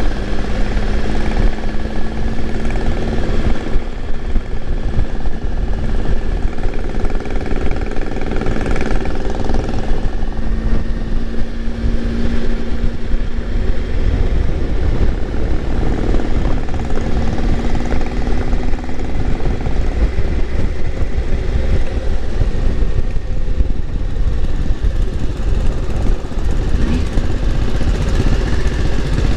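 Triumph Tiger 955i's three-cylinder engine running steadily at cruising speed, under heavy wind rush on the microphone.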